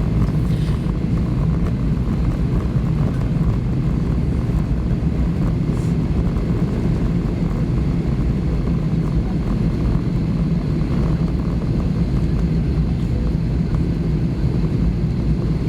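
Steady low cabin rumble of an Airbus A320 taxiing after landing.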